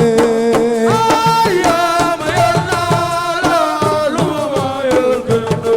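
Live Senegalese assiko music: held, slightly bending sung notes over a steady drum beat.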